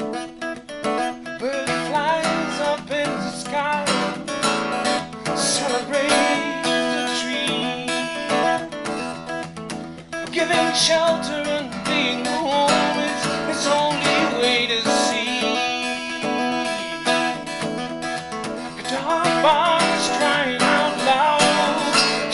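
Music: a song led by acoustic guitar, strummed and picked, with a steady accompaniment.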